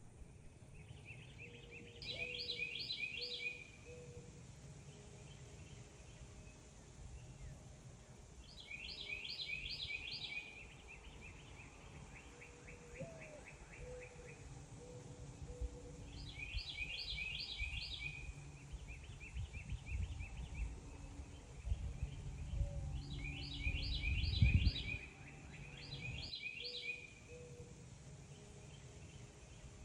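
A songbird singing the same short phrase about five times, a quick run of repeated notes, each bout lasting a second or two. Under it a steady low rumble, strongest in the last third.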